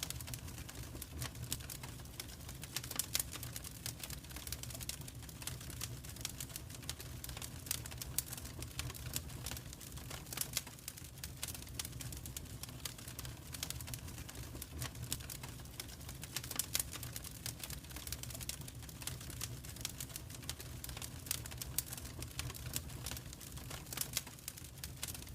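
Wood fire crackling in a fireplace: irregular pops and snaps over a low steady rumble.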